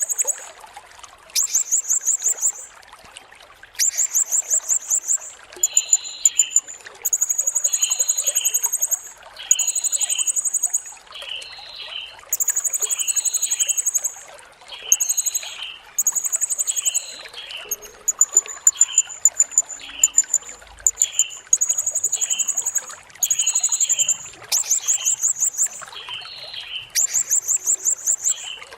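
Blue-crowned hanging parrot (serindit) singing: very high, rapid buzzing trills of a second or two each, repeated over and over, with shorter lower chirps about once a second between them.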